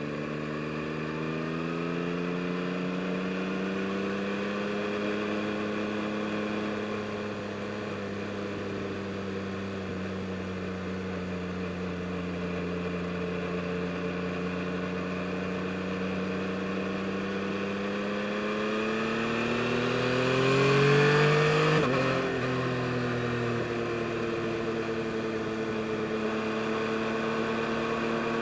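2022 Yamaha MT-09 SP's three-cylinder engine under way, its note climbing gently and then holding steady at cruise. About twenty seconds in the revs rise to their loudest, then drop abruptly, and the engine settles back to a steady note.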